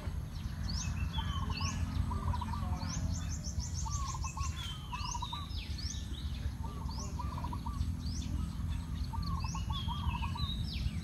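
Several wild birds calling: quick high chirps that sweep upward, a fast run of them about three seconds in, and short clusters of lower repeated notes, over a steady low rumble.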